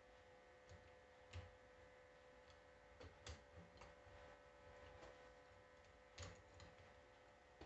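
Faint, irregular light clicks and taps of tools and small metal parts being handled while a starter motor and its solenoid are put back together, a few each second at most, with quiet between.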